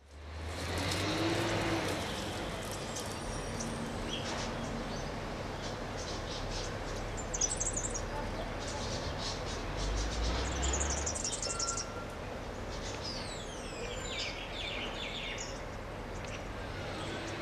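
Outdoor garden ambience with birds chirping and calling now and then, including a few falling whistles, over a steady background hiss and occasional low rumbles.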